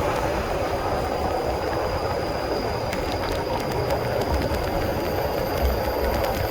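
Honda CB150R motorcycle's single-cylinder engine running steadily while riding, mixed with road and wind noise and a few faint clicks.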